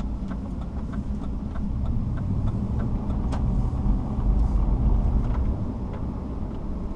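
Car driving on the road, heard from inside the cabin: a steady low rumble of engine and tyres that swells louder about four seconds in, with faint light ticks above it.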